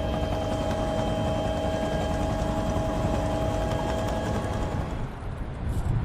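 A steady engine drone: several constant whining tones over a low rumble, easing off slightly near the end.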